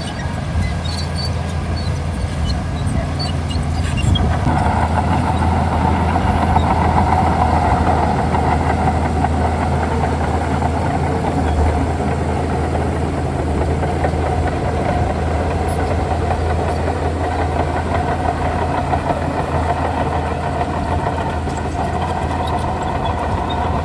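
Bulldozer's diesel engine running steadily. It gets louder and fuller about four seconds in, as if working under load.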